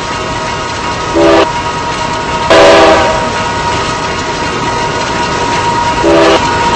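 Freight locomotive's multi-chime air horn: a short blast about a second in, a longer blast about two and a half seconds in, and another short blast near the end, over the continuous noise of the moving train.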